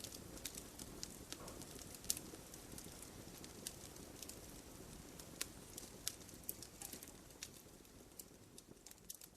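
Wood fire crackling in a fireplace: irregular sharp pops and snaps from the burning logs over a soft, steady low rush of flame, growing fainter toward the end.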